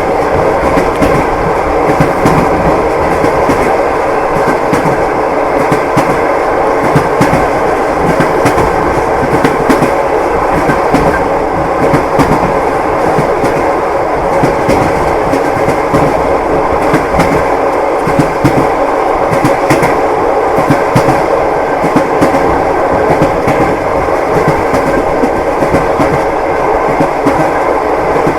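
Train wheels clacking over the rail joints, repeated clicks over the steady rumble of a moving railway carriage.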